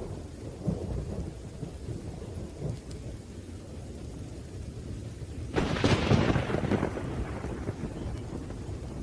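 Thunderstorm: low rolling thunder over steady rain, with a sharp, loud thunderclap a little past halfway that fades over a second or two.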